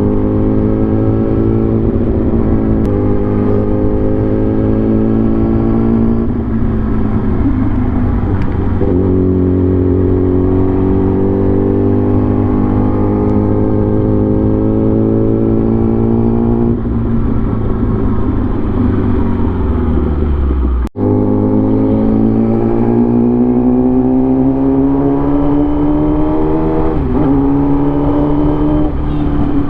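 A vehicle's engine under way, pulling through the gears. Its pitch climbs steadily, then drops back at each shift, about five times. The sound cuts out for an instant about 21 seconds in.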